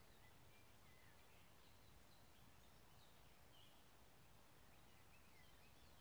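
Near silence in a woodland: faint, scattered short chirps of distant small birds over a steady low hiss.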